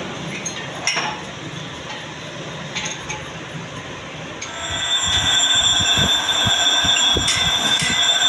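Metal being cut on a lathe: a few light metallic clinks, then, about halfway, the cutting tool sets up a steady high-pitched squeal against the steel.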